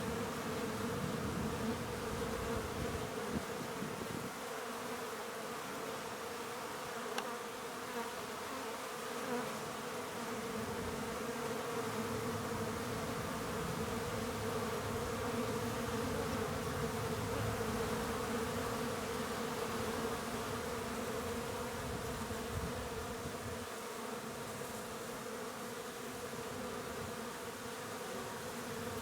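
Honeybees buzzing steadily in a continuous drone around the hive.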